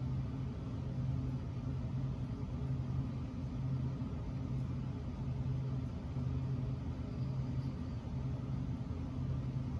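Steady low hum over a faint rumble: background machine or room noise, with no distinct event.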